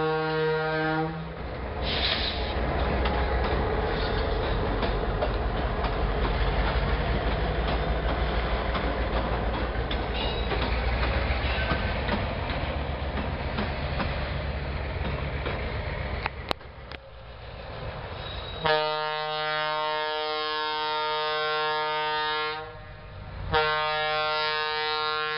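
Diesel-hauled freight train passing close by: a steady rumble of wheels on rail with clickety-clack from the rusty freight wagons, lasting about seventeen seconds and dying away near the end. Held, steady multi-note tones sound for the first second and again over the last seven seconds in two long stretches with a short break between them.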